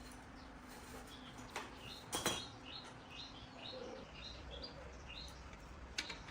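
A small bird chirping in a quick series of short high notes, with one sharp clatter about two seconds in.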